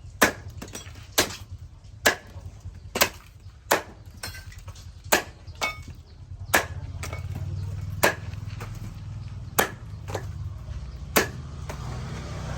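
A machete chopping, about eleven sharp strikes roughly a second apart. A low rumble builds underneath from about halfway through.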